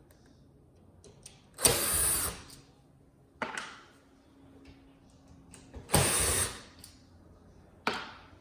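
Screws being taken out of a flat-screen TV's metal frame with a screwdriver: two short, loud, noisy bursts about four seconds apart, with lighter knocks in between.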